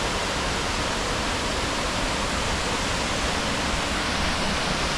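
Waterfall crashing steadily at close range, a continuous dense rush of falling water with no let-up.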